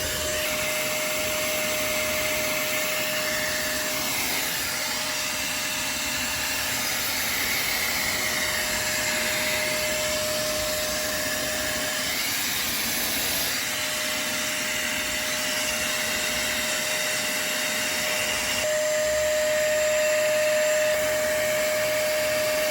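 Shark Stain Striker portable spot cleaner running: a steady motor and suction noise with a constant whine. It is a stain and deep-cleaning extractor, not a regular vacuum, so it does little for general dry debris.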